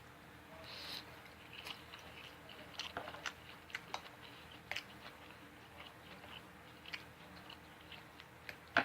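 Faint close-miked chewing of a person eating: scattered small wet clicks and smacks, with a sharper click near the end.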